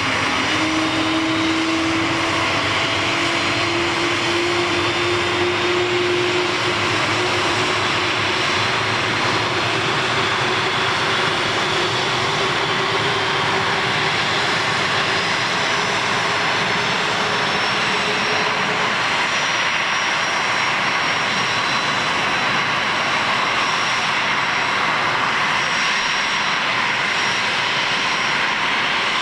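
Boeing 737-500's CFM56 turbofan engines running, a steady loud jet noise with a high whine above it. A low tone in the engine sound rises slowly through the first part.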